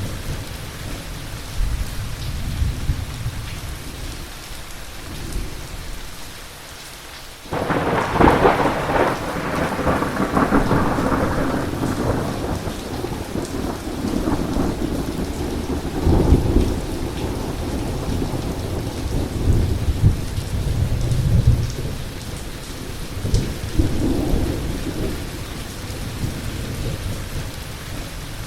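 Heavy rain falling steadily, with thunder rumbling. About a quarter of the way in, a sudden loud thunderclap breaks and rolls on for several seconds, and further rumbles swell and fade later on.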